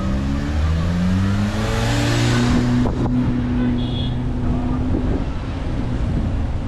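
Motor vehicle engine accelerating, its pitch rising for about two and a half seconds and then holding steady at higher revs.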